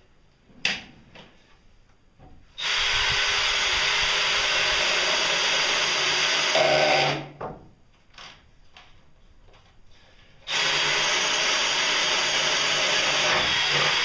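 A handheld power tool running in two long, steady bursts of about four and a half seconds each, starting and stopping abruptly, with a sharp click about a second in.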